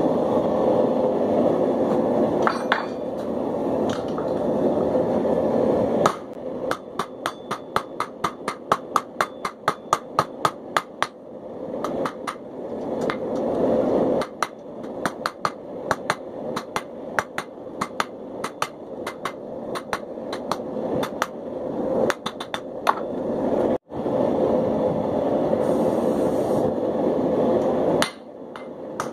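Hammer blows on hot steel over an anvil in quick runs of several strikes a second, drawing out a taper. Between the runs there is a steady rushing noise from the forge.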